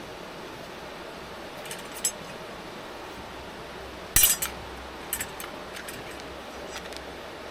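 Metal camp cookware and utensils clinking and clattering: a couple of light clicks, then a loud clatter about four seconds in followed by several lighter knocks. A steady hiss runs underneath.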